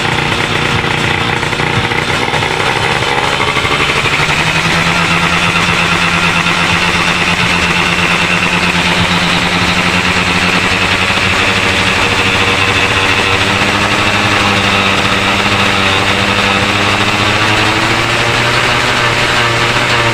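Modified underbone (bebek) motorcycle engine running steadily at a fast idle. Its pitch creeps up slightly over the first few seconds, then holds.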